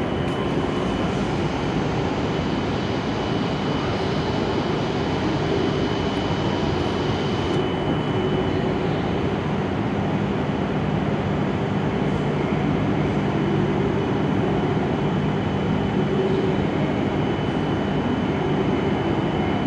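E7 series Shinkansen standing at the platform with its on-board equipment running: a steady hum with a thin high tone above it. A fainter high hiss stops about eight seconds in.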